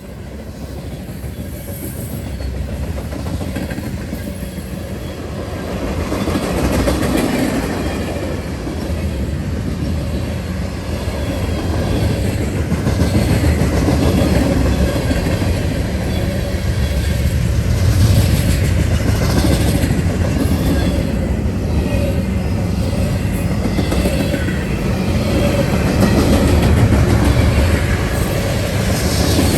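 A train rolling past, its wheels clicking over the rail joints with a steady rumble. It grows louder over the first several seconds, then holds.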